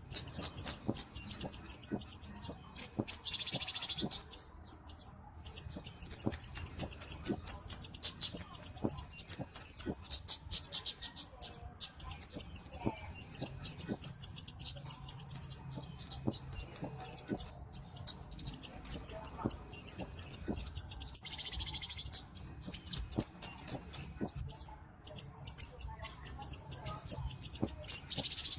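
Flowerpecker (cabe-cabean) calling: very high-pitched, rapid ticking chirps in runs of several seconds, broken by short pauses.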